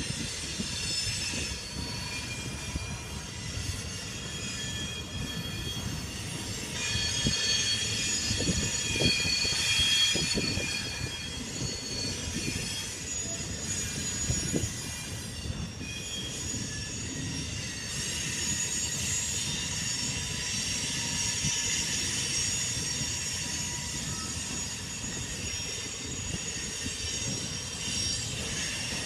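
Grain train's freight cars rolling past with a steady rumble, wheels squealing in several high, shifting tones and clicking now and then over the rail joints. The squeal comes and goes, loudest about a third of the way in and again past the middle.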